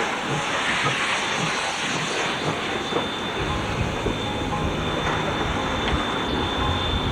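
Railway train running on the track, with a steady hiss throughout and a low rumble coming in about three and a half seconds in.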